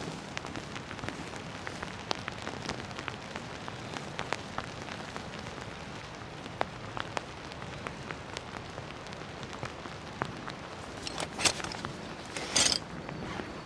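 Rain falling, a steady patter with many separate drops ticking. Two louder, short rustling bursts come near the end.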